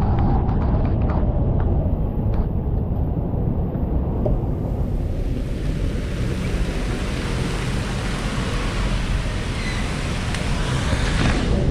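Wind buffeting the microphone on a motorcycle riding through typhoon rain, a steady low rumble. About four seconds in a strong hiss of rain and wet-road spray joins, dropping away just before the end.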